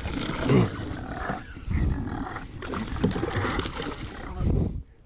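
A bulldog breathing noisily aboard a kayak, in repeated loud breaths about every second and a half.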